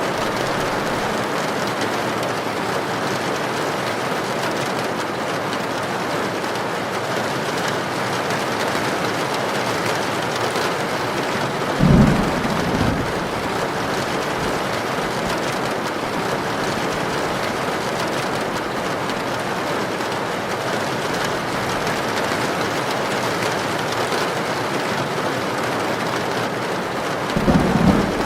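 Heavy rain falling steadily, with two brief low rumbles of thunder, one about halfway through and one near the end.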